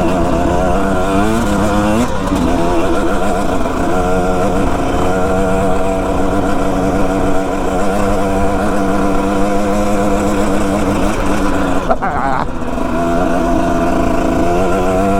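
Dirt bike engine running under way. The revs climb in the first couple of seconds, then hold steady. About twelve seconds in the throttle is briefly shut off and the revs climb again. Wind rushes over the microphone throughout.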